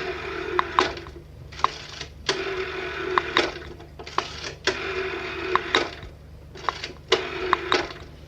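Old telephone's mechanical bell ringing in repeated bursts, a short ring followed by a longer one about every two and a half seconds, with sharp clicks as each ring starts and stops.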